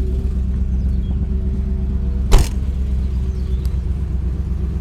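Triumph Stag's 3.0-litre V8 idling steadily as it warms up, a low even rumble. About two seconds in, one loud sharp clunk as the car door is shut.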